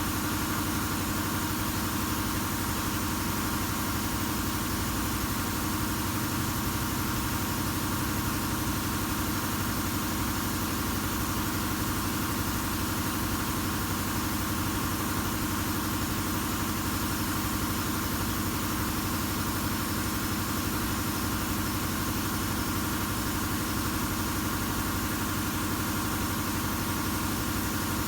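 A steady, unchanging mechanical drone like an engine idling.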